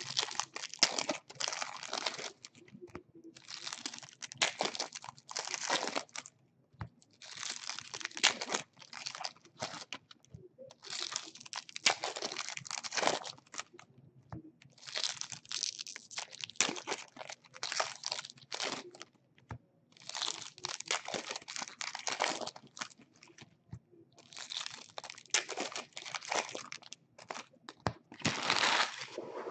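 Crinkly plastic wrappers of baseball card packs being torn open and crumpled, in about eight separate crackling bursts a few seconds apart.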